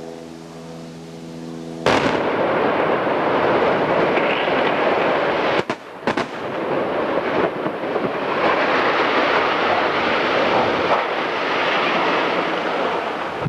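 Explosive charges demolishing a chimney go off with a sudden loud bang about two seconds in. A long, continuous, loud noise follows as the chimney comes down and the rubble falls.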